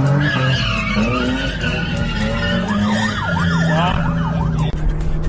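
Car tyres squealing in a skid, the squeal wavering in pitch, over steady vehicle noise. A fast warbling tone comes in about midway for a second or so.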